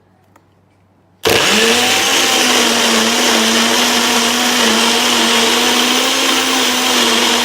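Blender switched on about a second in, its motor running steadily at full speed as it blends a fruit and spinach smoothie.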